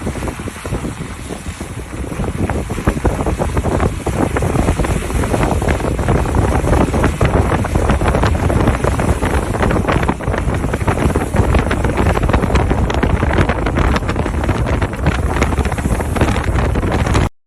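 Wind buffeting the microphone: a loud, dense rushing noise with a heavy low rumble, rising a little about two seconds in and cutting off suddenly near the end.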